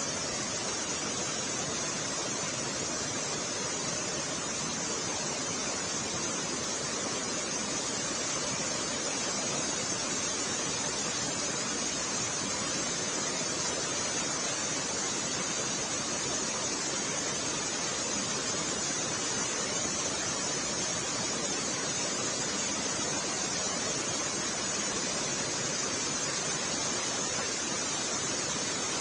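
Fast-flowing floodwater rushing: a steady, unbroken wash of noise that stays level throughout.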